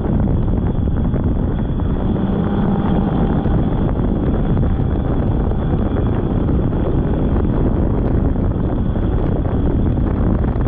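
Polaris snowmobile running steadily along a trail, its engine drone mixed with heavy wind rushing over the microphone.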